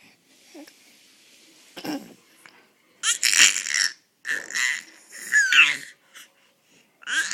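A baby doing a dinosaur impression: three loud, raspy, high-pitched shrieks from about three seconds in, after a faint hiss and a small vocal sound.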